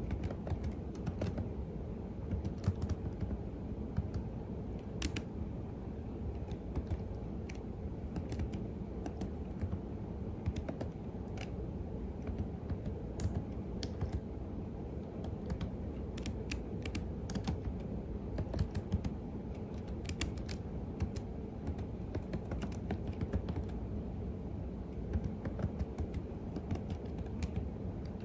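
Computer keyboard typing: a continuous run of quick, irregular keystroke clicks over a steady low background hum.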